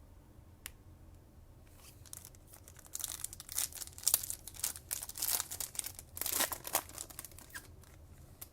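A foil trading-card pack wrapper being torn open and crinkled, a dense crackle that starts about three seconds in and lasts about four seconds.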